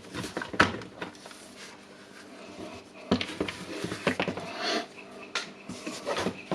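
Hands handling the plastic housing and wiring of a cordless hammer drill: an irregular series of sharp plastic clicks and taps with brief rustling between them.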